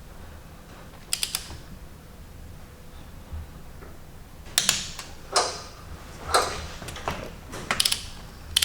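Ratchet torque wrench being worked on intake manifold bolts: a quick run of clicks about a second in, then ratcheting strokes about once a second from midway on. A click-type wrench clicks when the bolt reaches the set torque.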